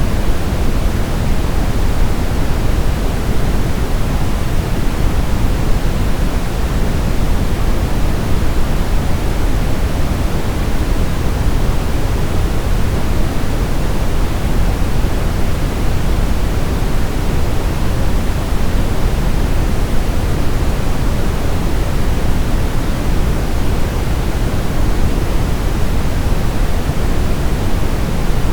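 Brown noise: a steady, even rumbling hiss, loudest in the deep bass and fading toward the highs, unchanging throughout.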